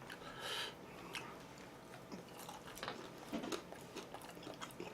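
A person chewing and biting food close to the microphone: soft, irregular mouth clicks and smacks, with a brief hiss about half a second in.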